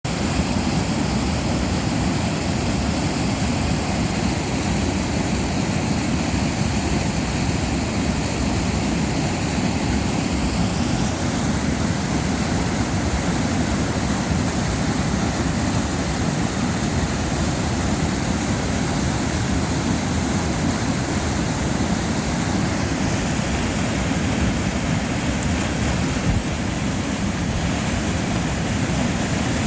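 Waterfall rushing with a steady, unbroken wash of water sound, heaviest in the low end.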